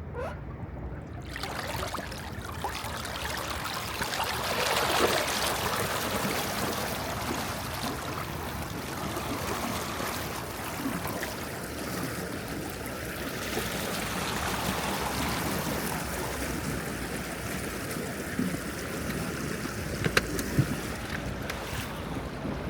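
Boat motor starting about a second in and running, heard under steady rushing water and wind noise.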